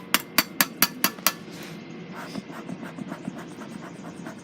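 A run of about seven quick, sharp metallic clacks in under a second and a half, the hinged metal lid of a beekeeper's smoker being knocked shut.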